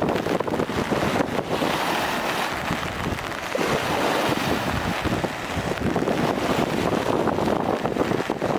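Strong, gusty wind from an approaching typhoon buffets the microphone, over rough lake waves washing against the shore.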